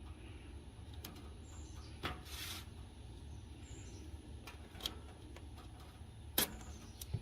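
Faint handling sounds of masking tape being worked: one brief rasp of tape pulled from the roll about two and a half seconds in, and a few light clicks and taps, the sharpest near the end, over a low steady hum.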